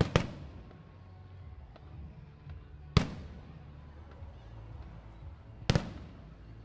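Fireworks bursting in the sky with sharp bangs: a quick pair right at the start, a single bang about three seconds in, and another quick pair near the end, over a low background rumble.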